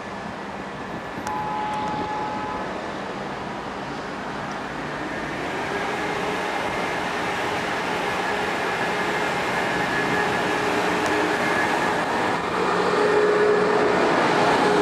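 Amtrak Acela Express electric high-speed trainset coming in along the platform and running past, with the rumble of the train and a faint steady whine growing steadily louder as the power car draws alongside.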